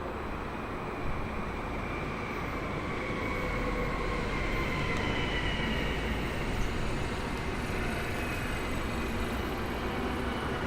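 A train running past, a steady rumble that grows slowly louder, with faint high whines gliding slowly in pitch.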